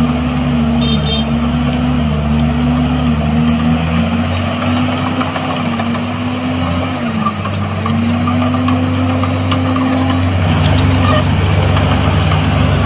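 Diesel engine of heavy earthmoving machinery running steadily under load. Its pitch dips a little now and then and shifts about ten seconds in.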